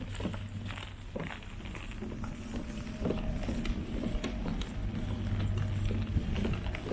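Tour boat's engine running steadily with a low hum, getting a little louder about three seconds in, with scattered light knocks.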